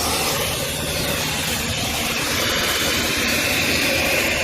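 Car-wash vacuum hose running, a steady rush of suction air, with a whistling tone that grows stronger about halfway through.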